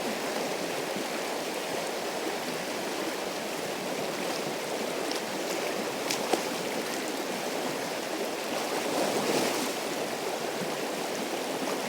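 River water running steadily, with a couple of faint clicks and a brief louder surge of water about nine seconds in.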